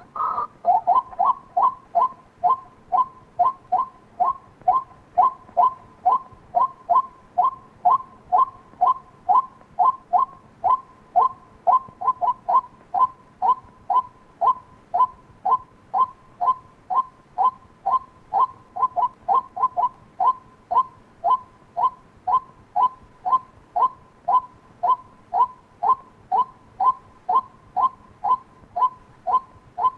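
White-breasted waterhen call, one short sharp note repeated evenly about twice a second without a break.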